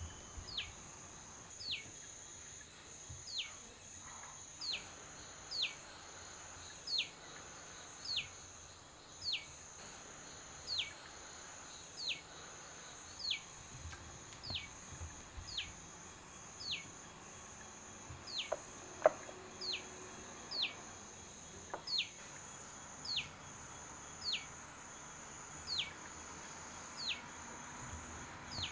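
A bird repeating a short whistled call that slides down in pitch, about once every second and a bit, over a steady high-pitched insect drone.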